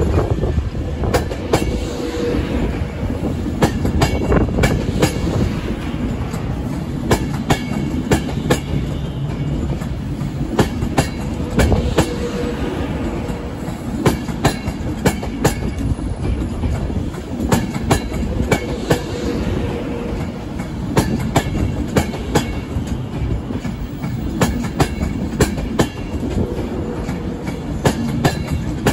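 Avanti West Coast Class 390 Pendolino electric train rolling past alongside a platform, its wheels clicking over rail joints, often in pairs as each bogie goes by, over a steady rumble. A faint falling whine comes and goes a few times.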